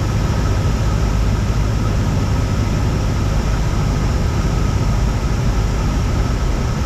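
Steady drone of a Cessna 172's piston engine and propeller in flight, heard inside the cabin.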